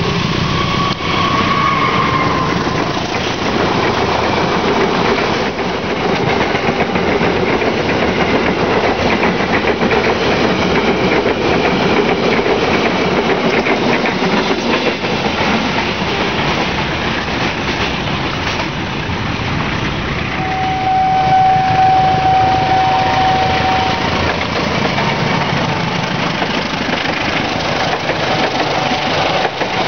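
Diesel-hauled passenger train running past close by: engine and wheel-and-rail noise from the passing coaches, with wheels clicking over rail joints. A single steady high tone is heard for about three seconds past the middle.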